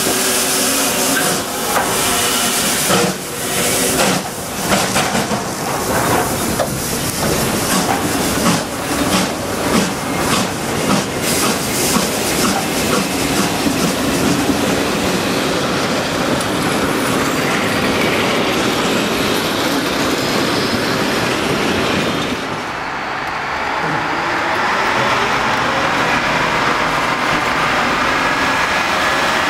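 Steam locomotive and carriages rolling slowly past at close range over a level crossing, the wheels clicking over the rail joints in a rapid run that thins out as the carriages follow. About 22 seconds in, the sound changes to a steady rumble of a diesel railcar running along the track.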